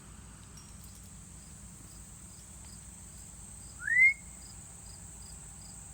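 Steady insect chorus of crickets: a continuous high buzz with faint regular chirps about two and a half times a second. About four seconds in, a single short rising whistle cuts through.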